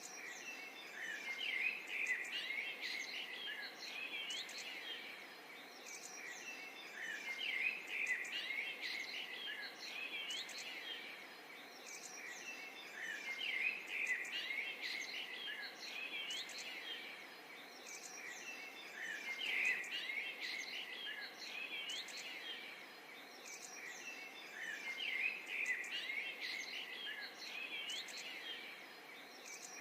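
Songbirds chirping and twittering over a faint hiss, in bursts that come back about every six seconds like a looped recording.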